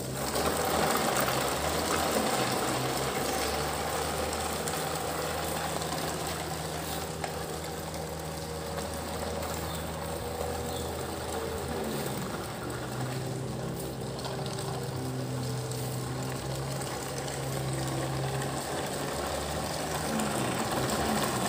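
Motorised toy construction vehicle running with a steady engine-like hum, which shifts in pitch about twelve seconds in.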